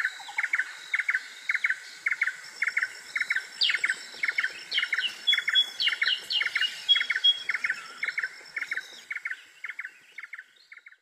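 Small birds calling: a short two-note chirp repeated about twice a second, with a quick run of higher chirps in the middle, over a faint steady high-pitched tone. The calls fade out near the end.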